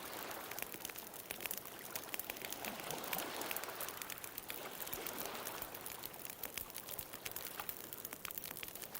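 Wood bonfire crackling with frequent small, sharp pops, over ocean waves washing ashore, the surf swelling and fading several times.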